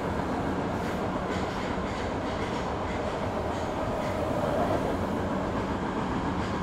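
Kita-Osaka Kyuko 9000 series electric train running between stations, heard from inside the car: a steady rumble of wheels on rail with a few light clicks over the rail joints. A faint whine rises a little around the middle.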